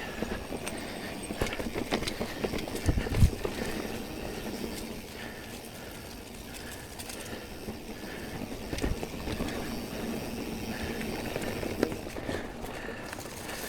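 Mountain bike ridden over dirt singletrack: tyres rolling on dirt with the bike rattling over bumps and roots. There is a heavy thump about three seconds in and another about nine seconds in.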